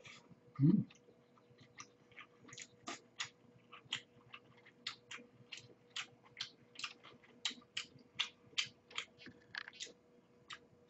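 Close-miked chewing of a mouthful of food: a run of wet mouth clicks and smacks, two or three a second. A brief low vocal sound comes about a second in.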